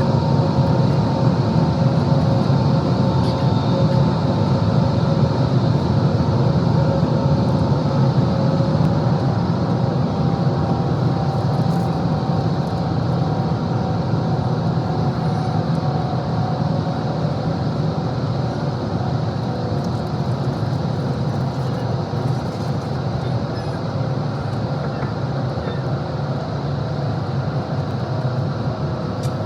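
Steady running noise of a moving train: a constant low rumble with a few faint steady whining tones over it.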